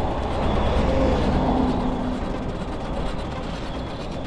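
Steady wind and rolling noise from a moving bicycle, with a faint whistling rub about a second in. The rub comes from the brake cable of a 1960 Schwinn Continental rubbing against the tire.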